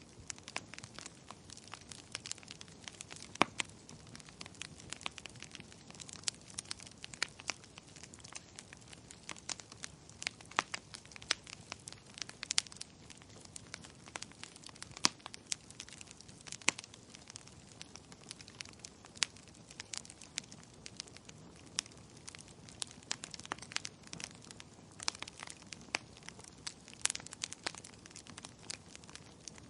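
Wood fire crackling in a fireplace: a steady soft hiss of burning with frequent irregular sharp pops and snaps, a few of them much louder than the rest.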